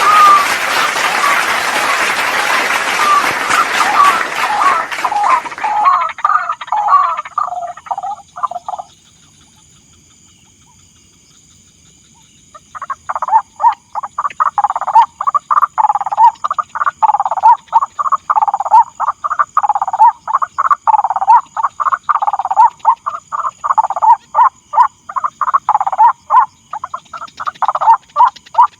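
White-breasted waterhen calls: rapid, repeated croaking notes. They break off for a few seconds about a third of the way in, then resume. For the first several seconds a loud hiss lies over them.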